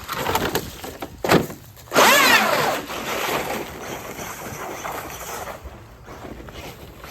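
Brushless electric motor of a Traxxas RC monster truck whining as it is throttled, with a loud rising-and-falling rev about two seconds in. A few sharp knocks come before it as the truck bashes through rough ground.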